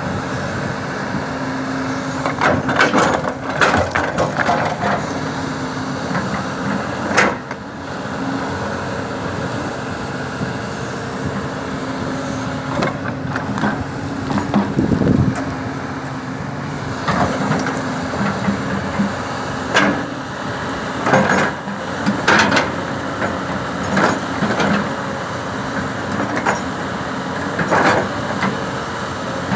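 Heavy diesel construction machinery running steadily, with repeated sharp metallic knocks and clanks scattered through it, in clusters about 3 to 5 seconds in and again from about 17 to 28 seconds.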